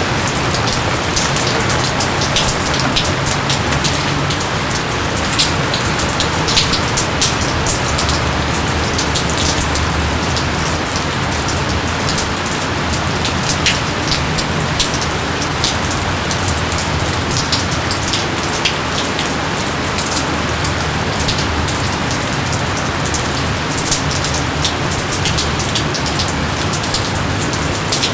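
Steady rain, with many sharp individual drops splatting close by on top of the even hiss of the downpour.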